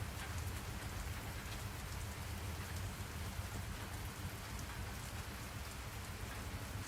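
Steady rain falling, with scattered drops ticking, over a low steady rumble.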